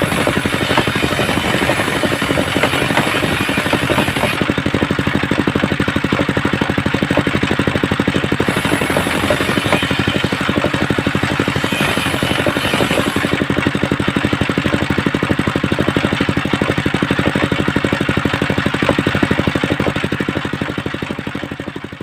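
Homemade circular saw rig running steadily, its motor giving an even, fast pulsing drone, with a faint higher hiss that comes and goes three times. The sound fades out near the end.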